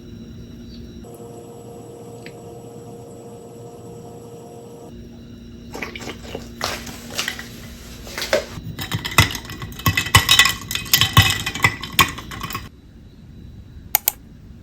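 Dishes and utensils clattering in a busy run of knocks and clinks for about seven seconds, then two sharp clicks near the end.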